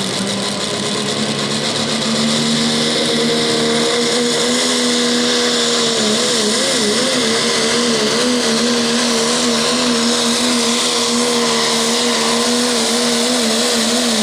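Pro stock diesel pulling truck at full throttle under the load of a pulling sled: a loud, steady engine and turbo noise whose pitch wavers up and down through the run.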